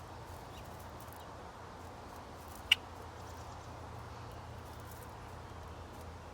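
Steady outdoor background hiss with a low hum under it, broken by one short, sharp click a little under halfway through.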